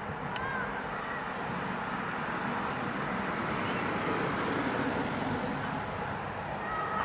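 Steady running noise of a train hauled by the electric locomotive EA-085, with a couple of faint bird chirps about half a second in.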